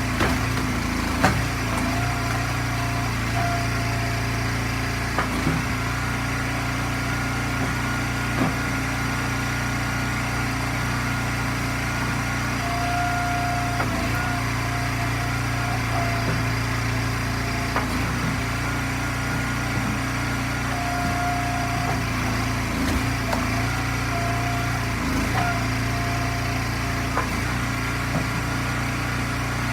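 Small gas engine of a hydraulic log splitter running steadily, with scattered knocks and a few short higher-pitched whines as firewood rounds are split.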